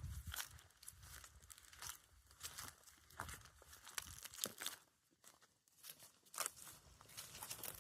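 Faint, irregular crackling and crunching: a scatter of small, uneven clicks and rustles with short quiet gaps.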